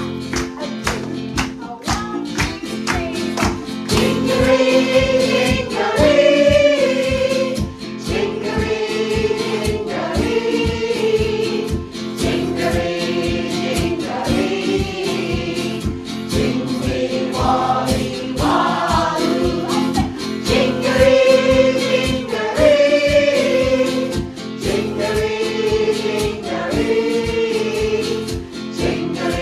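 A choir singing a children's song in a First Nations language, with a steady rhythmic instrumental accompaniment.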